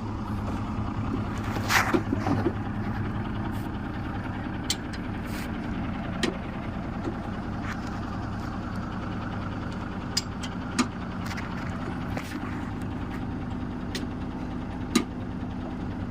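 An engine idling steadily, with scattered sharp metallic clicks and knocks over it.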